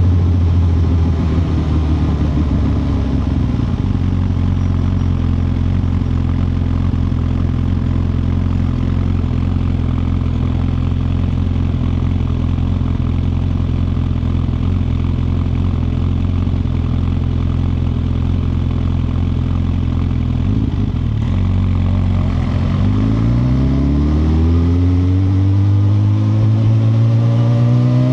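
2021 Suzuki GSX-R1000R's inline-four engine running at a steady speed for most of the stretch, then, after a brief break near the end, rising steadily in revs as the bike accelerates.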